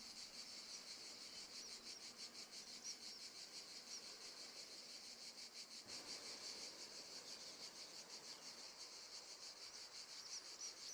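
Faint background of crickets chirping, a fast, even pulsing trill that holds steady, with a few short high chirps over it.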